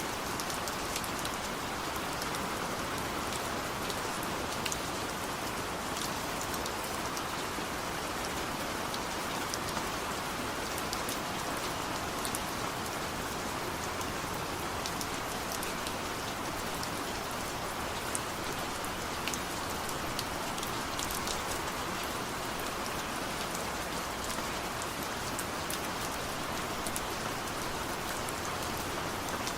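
Steady rain falling, with a dense even hiss and many small drops pattering and ticking on a surface.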